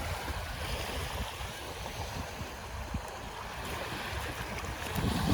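Wind rumbling on the microphone over a steady wash of shoreline water.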